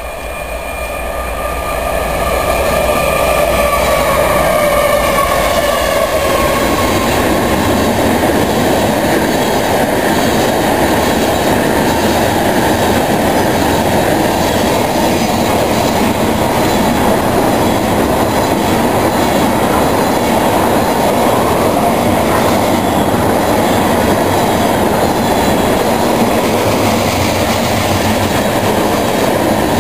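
Freight train passing close at speed: the locomotive goes by in the first few seconds with a slightly falling tone, then a long string of tank cars rushes past in a loud, steady din of wheels on rail.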